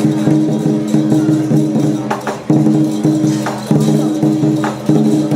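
Lion-dance percussion of drum, gong and cymbals playing a fast, steady beat, with ringing metal tones and a strong accent a little more than once a second.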